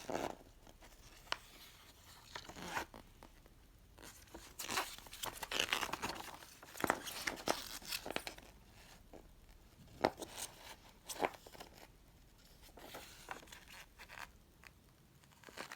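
Paper rustling and crinkling in short irregular bursts, with a few sharp clicks, as the pages of a plastic model kit's instruction booklet are handled and turned.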